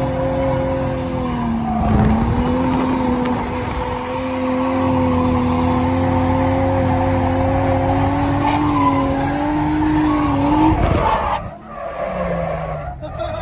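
Nissan 180SX engine heard from inside the cabin, held at high revs through a long drift while the rear tyres slide and squeal. About eleven seconds in the note breaks off and the revs fall away.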